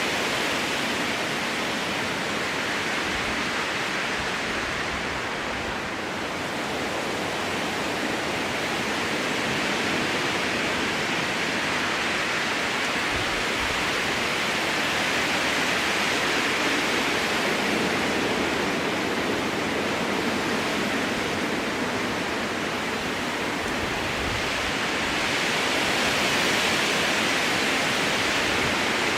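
Strong wind blowing through a spruce forest: a steady rushing that swells and eases slowly, dipping about six seconds in and building again near the end.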